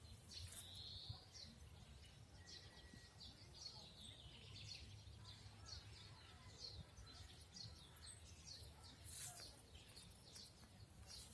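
Faint birdsong from several birds: many short, high chirps and trills follow one another throughout, over a low steady background rumble.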